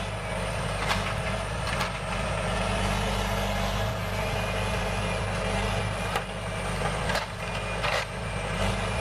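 Heavy diesel engine of a forestry machine running steadily, with several sharp knocks and clunks over it.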